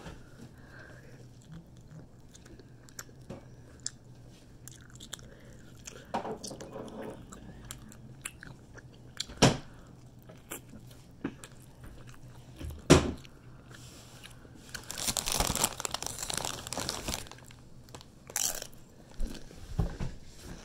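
Close-up chewing and biting of a slice of leftover pizza, with many small wet mouth clicks. Two sharp knocks stand out near the middle, and a longer burst of louder noise comes about three-quarters through.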